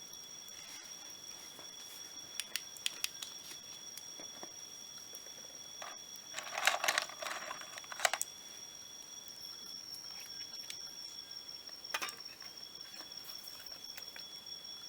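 Night insects, crickets or similar, singing a steady high-pitched drone of two continuous tones, one of which drops out briefly near the two-thirds mark. Several sharp clicks and a short burst of rustling, handling noise, cut in around the middle.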